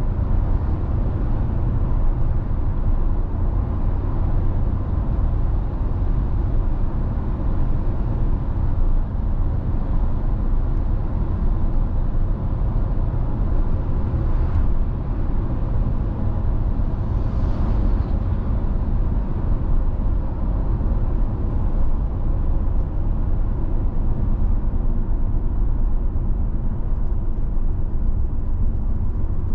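Car driving at a steady speed: continuous low rumble of tyres on the road and the engine.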